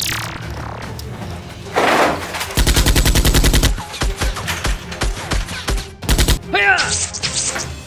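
Rapid machine-gun fire sound effects, about a dozen shots a second, over background music: one long burst about two and a half seconds in and a short burst near the six-second mark.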